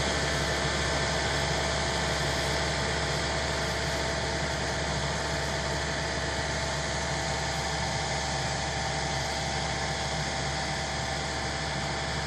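Hydraulic winch and its drive running steadily while the tower is raised: an even mechanical hum with a constant pitch.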